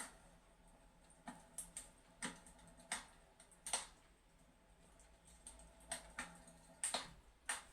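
Fireplace crackling: irregular sharp pops and snaps, about a dozen, some with a short trailing sizzle.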